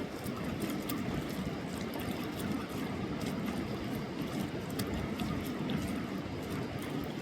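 Wild mountain river rushing steadily, with scattered small clicks and taps over it.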